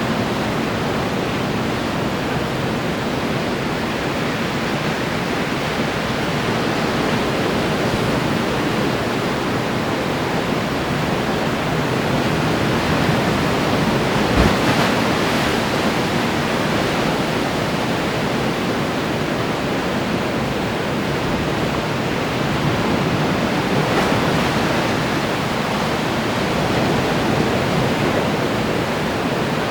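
Ocean waves breaking and washing on the shore: a steady rushing surf that swells a little about halfway through, with one brief low thump at that point.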